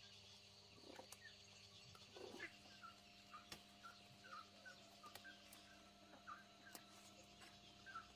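Faint outdoor ambience: small birds chirping in short, repeated notes, with a few faint ticks.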